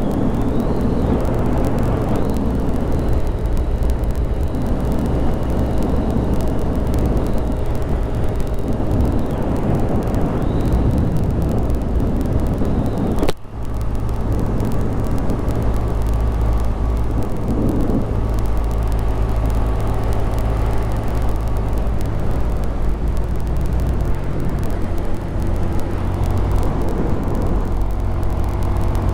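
Honda Grom 125's single-cylinder engine running steadily under way, with one brief drop in sound about halfway through.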